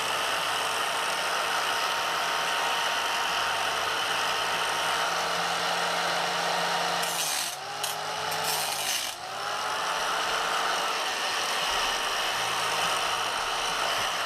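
Angle grinder running against the steel casing of an air-conditioner compressor: a steady high motor whine over a harsh grinding hiss. About halfway through, the whine dips twice as the motor stops or bogs, and it spins straight back up each time.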